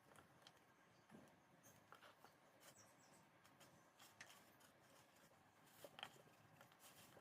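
Near silence broken by faint, scattered small clicks and taps, the strongest about six seconds in.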